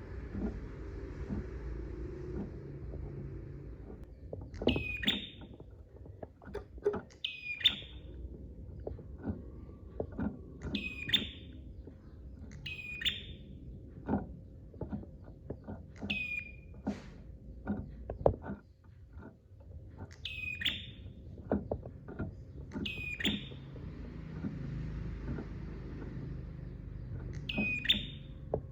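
Prenjak (prinia) calling: a sharp, high note that drops in pitch, repeated about every two to three seconds, over a steady low hum and scattered soft clicks.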